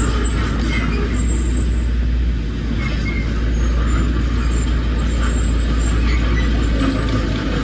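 Heavy earthmoving machinery's diesel engine running steadily with a deep rumble, as from a bulldozer or dump truck working.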